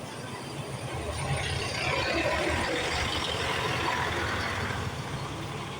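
Scania OmniLink CL94UA articulated ethanol bus under way, its engine running with a steady low rumble, while a rush of road noise swells up about a second and a half in and dies away again near the end.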